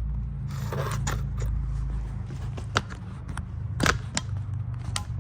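Scattered clicks and metallic knocks of hand tools being handled and set against metal, the loudest a sharp knock about four seconds in, over a steady low hum.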